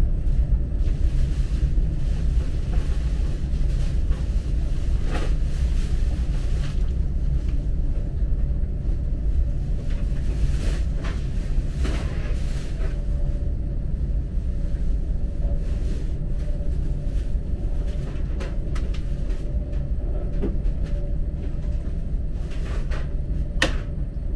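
Steady low rumble of a Chinese high-speed train running at speed, heard from inside the carriage, with a faint steady hum and a few brief clicks.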